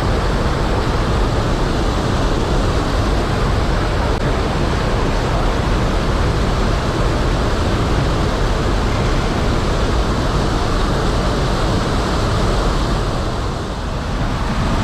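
Steady rushing roar of water pouring over a mill-dam waterfall, dipping slightly near the end.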